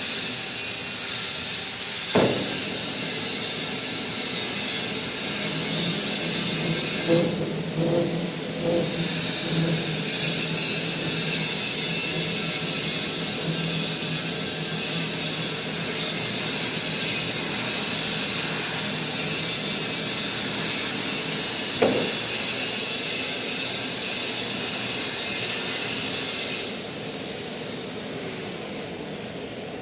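Manual metal lathe running with a steady high hiss, with two sharp knocks. The noise drops away abruptly near the end.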